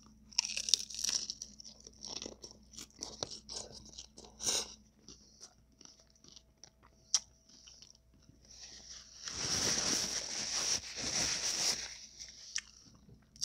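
A person chewing and crunching taco, a run of short crisp crunches, then a louder, denser stretch of crunching about nine seconds in that lasts some three seconds.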